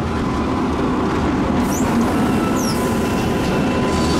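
Loud, steady rumble and hum of an ÖBB car-and-bike shuttle train standing at the platform, with a thin steady whine over it and two brief high, falling squeaks about halfway through.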